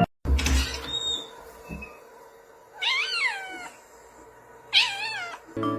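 Domestic cat meowing twice, a couple of seconds apart, each call rising then falling in pitch. A brief bump comes just before, near the start.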